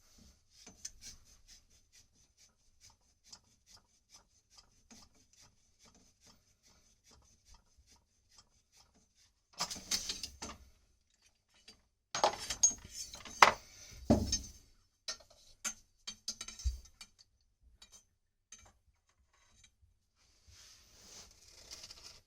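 Copper pipe and fittings being handled and worked: faint rubbing and scraping with light ticks, then a burst of metal knocks and clatter about halfway through.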